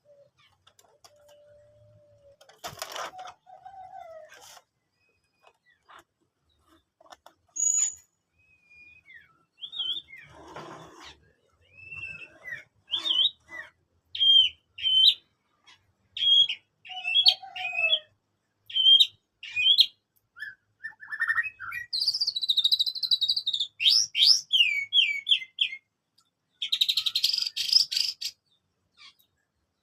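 White-rumped shama (murai batu) singing: scattered short whistles at first, building in the second half into quick runs of varied chirping notes and dense, harsh buzzy phrases.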